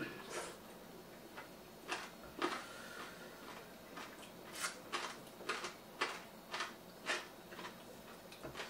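Close-miked eating sounds: a dozen or so short, irregular wet smacks and crunches as barbecued meat wrapped in lettuce is chewed.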